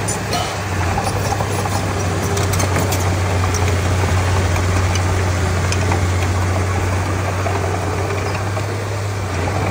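Komatsu D31P bulldozer's diesel engine running steadily under work, a constant low drone with a few short clanks now and then.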